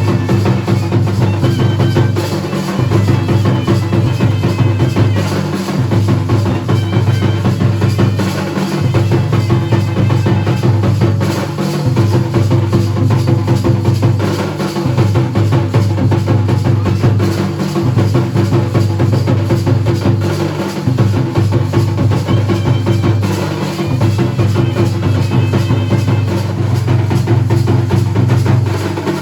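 Dhol and nagada drums played together in fast continuous beating, the deep drum pattern cycling about every three seconds.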